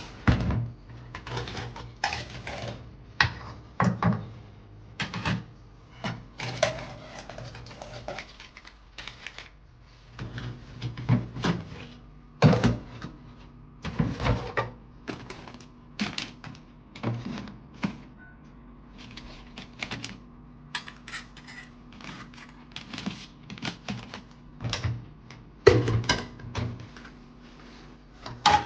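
Irregular taps, clicks and knocks, as of objects being handled and set down, over a faint steady low hum.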